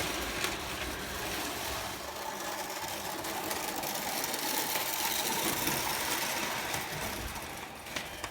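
Prewar Lionel O gauge electric toy train running on tinplate track: a steady, rapid mechanical clatter of the motor gears and wheels, fading away near the end.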